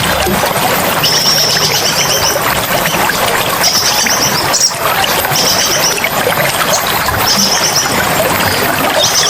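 Running water with a steady rush, and a bird repeating a short, high, rapid trill about every one to two seconds.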